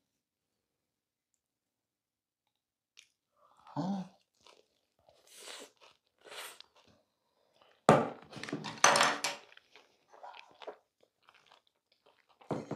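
Close-miked chewing of a mouthful of bibimbap, rice and seasoned vegetables, in short irregular bursts. It starts about four seconds in after near silence and is loudest around eight to nine seconds.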